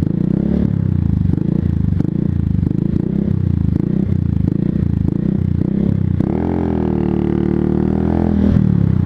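125cc motorcycle engine running under way; about six seconds in the revs rise and hold higher for about two seconds before dropping back.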